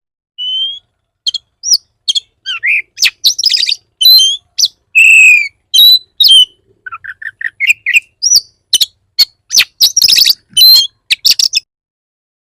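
Oriental magpie-robin singing a fast, varied, aggressive song of sharp whistles, rising and falling glides, quick note runs and harsh scratchy notes. It is the kind of song played as a lure to provoke other magpie-robins into answering. The song breaks off about a second before the end.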